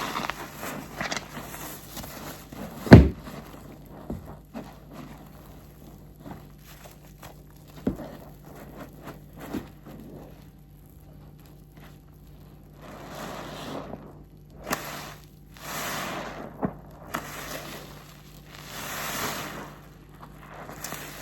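Soapy waffle car-wash sponge being squeezed and wrung: wet squelching swells in the second half, with scattered small clicks and a single sharp knock about three seconds in.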